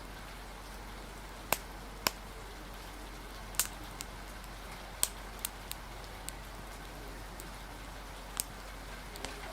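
Steady rain hiss with about nine sharp, irregular clicks scattered through it, the loudest around three and a half seconds in.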